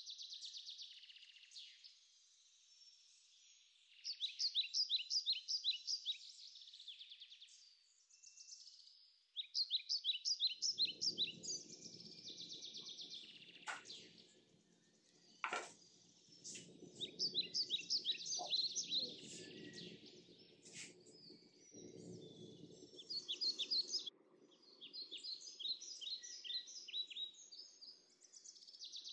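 Birdsong: runs of rapid chirping trills, each lasting a few seconds, repeated with short pauses between. From about a third of the way in, a low, even rustling noise sits beneath the song, with a couple of sharp clicks.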